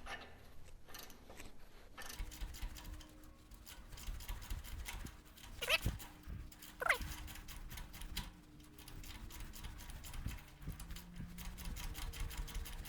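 Steel tap being turned by hand to cut 3/8-16 threads in a steel bracket: a run of small clicks and creaks as the tap cuts and is worked back and forth, with two short rising squeals a little past the middle.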